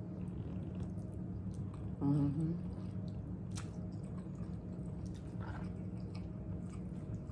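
A person eating ramen noodles: chewing with scattered wet mouth clicks, and a brief hummed "mm" about two seconds in.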